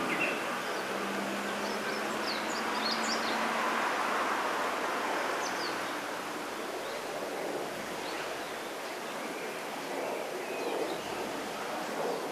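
Wind rustling through a bamboo grove as a steady hiss. Several short, high bird chirps come about two to three seconds in and again around five seconds, with fainter ones later. A faint low hum sits under the first few seconds.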